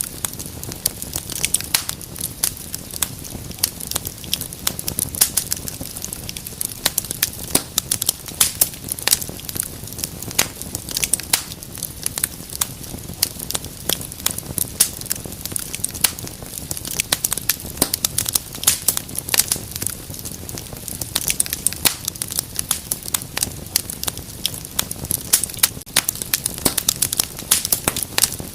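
Wood fire burning in a fireplace, crackling and popping with many sharp snaps over a low steady rumble.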